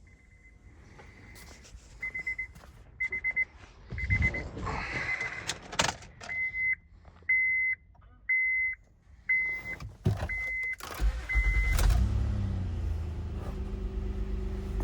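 Dashboard warning chimes beeping, first in quick groups of short beeps and then one beep about once a second. Near the end the starter cranks briefly and the 2012 Honda Pilot's 3.5-litre V6 catches and settles into a steady idle.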